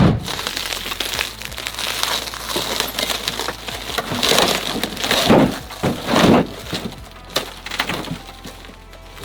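Crunching and cracking of something brittle being broken apart. There is a sharp knock at the start and several louder crunches near the middle.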